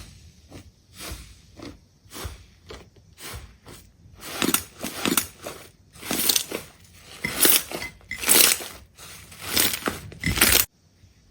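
A run of crunching strokes, roughly two a second, growing louder about four seconds in and cutting off suddenly near the end.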